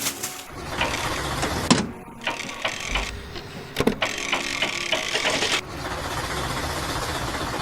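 Machinery sound effects: mechanical clattering with a few sharp clicks, settling into a steady mechanical noise for the last couple of seconds.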